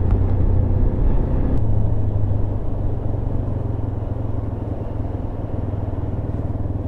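Motorcycle engine running steadily under way, a low hum with road noise, easing off slightly a few seconds in.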